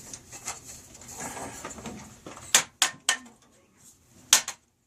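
Four sharp clanks of tools and fittings being handled during water-heater plumbing work. Three come close together about two and a half seconds in, and one more comes near the end.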